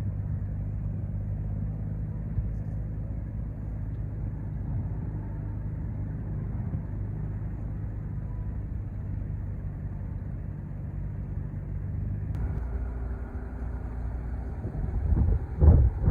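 Marine diesel engine running with a steady low hum that shifts in tone about twelve seconds in, then gusty low rumbling noise rises near the end.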